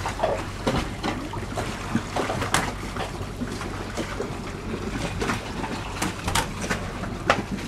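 Water splashing and sloshing around a boat, with scattered sharp knocks and clatter at irregular intervals.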